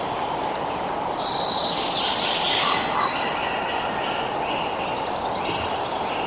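Songbirds singing over a steady rushing background noise. A bright, falling trilled phrase comes about a second in, followed by a run of short repeated notes.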